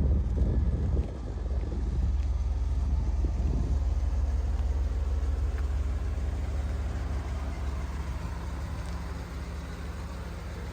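1986 Pontiac Trans Am's V8 engine running steadily, slowly getting quieter. Gusts of wind noise on the microphone come in the first couple of seconds.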